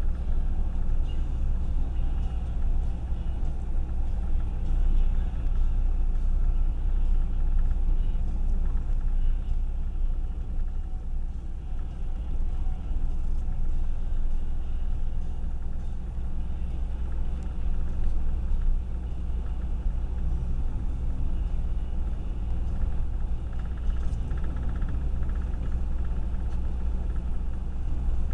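Car being driven on a snowy road: a steady low rumble of engine and tyre noise that stays even throughout.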